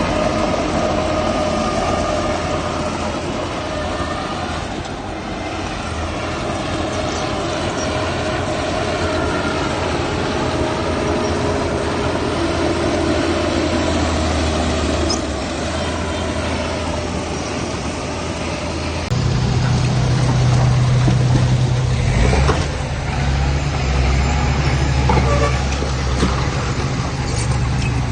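Heavy diesel machinery running steadily with a whine above the engine note; about two-thirds of the way through, a louder, deeper engine note takes over, and a sharp clank comes shortly after.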